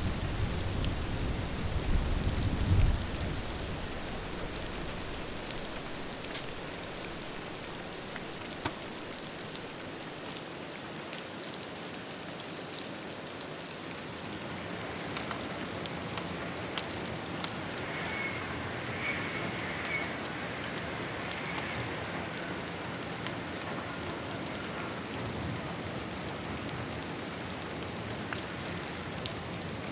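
Steady rain pattering, with the tail of a thunder rumble dying away in the first three seconds. Scattered sharp ticks of drops or crackles run through it.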